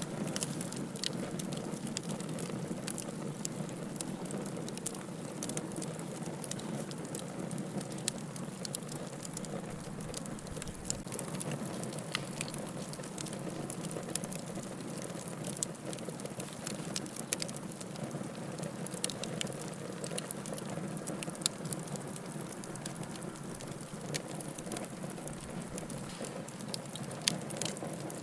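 Wood fire burning in a fireplace: a steady rushing hiss of flames with irregular crackles and pops of the firewood, one sharper pop near the end.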